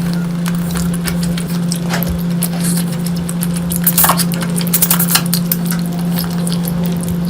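Close-miked eating sounds: scattered clicks and light clinks of dishes and cutlery as curry is eaten, over a steady low hum.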